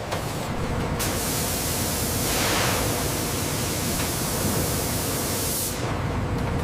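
Loud steady hiss that starts suddenly about a second in and cuts off sharply near the end, over a low rumble.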